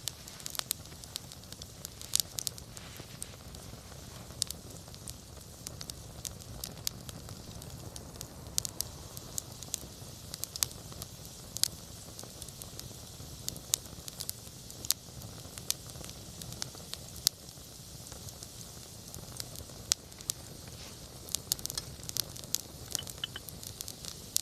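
Wood campfire burning, with irregular sharp crackles and pops of the burning wood over a steady low rumble of the flames.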